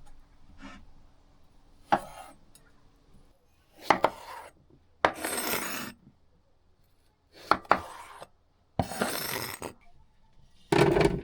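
A series of about six separate scraping and knocking sounds, each lasting up to a second with quiet gaps between, as of something being cut, rubbed or handled on a hard surface.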